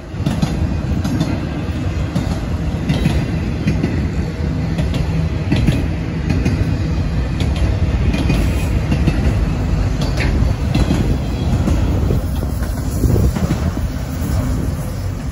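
Autorack freight cars of a Norfolk Southern train rolling past on the rails: a steady rumble of wheels on track with scattered sharp clicks.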